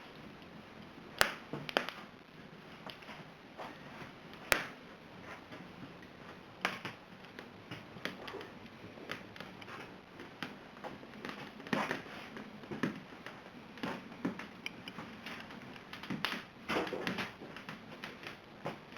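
Fire crackling in a fireplace: irregular small crackles, with two sharp pops about one and four and a half seconds in and denser bursts of crackling near the end.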